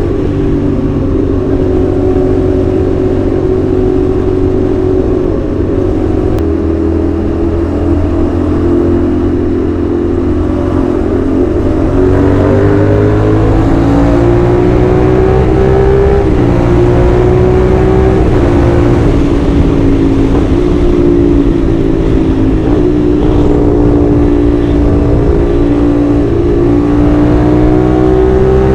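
CFMoto 450SR's 270-degree-crank parallel-twin engine and exhaust running while ridden. The note holds steady for the first third, then rises in pitch as the bike accelerates, with several short drops and climbs after that.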